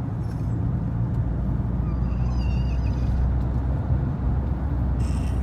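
A steady low rumble, with a faint, high, wavering squeal from a four-month-old baby about two seconds in, lasting about a second.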